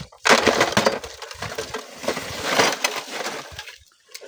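Loose sand and stones sliding and tumbling down a sand cliff, a dense crackling rush in two surges: the loudest about a quarter second in and a second past two seconds, dying away near the end.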